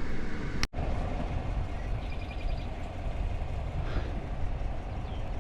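Vehicle cabin noise on the move: a steady low road and engine rumble, with a brief complete dropout in the sound less than a second in.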